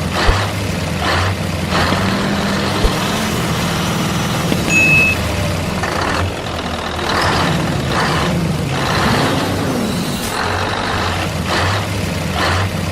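Truck engine running, with short hisses coming irregularly every second or so.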